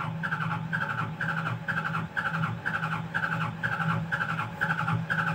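Hitachi Zaxis 200 excavator's diesel engine cranking on the starter without catching, in an even pulse of about two strokes a second, with a steady hum under it. This is the crank-but-no-start fault.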